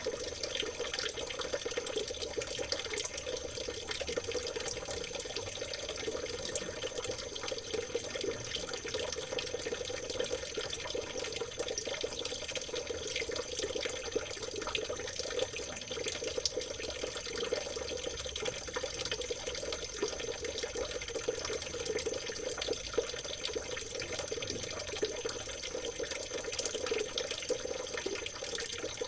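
River water trickling and babbling steadily, with no breaks.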